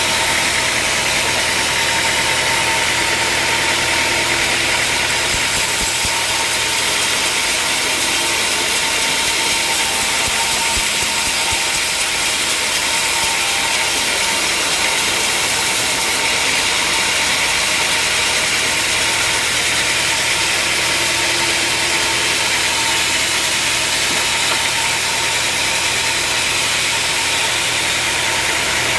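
Sawmill machinery running steadily, a loud continuous mechanical noise with a high hiss and a steady hum.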